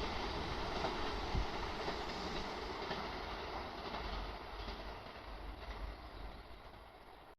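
Electric train running past and moving away, its rumble fading steadily, with a few wheel clacks near the start.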